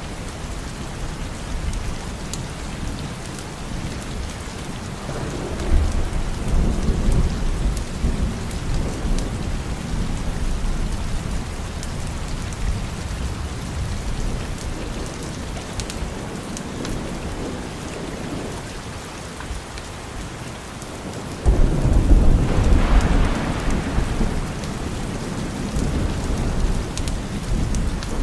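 Steady rain with two rolls of thunder: a low rumble about a fifth of the way in, and a louder thunderclap about three quarters of the way in that starts suddenly and rumbles on for several seconds.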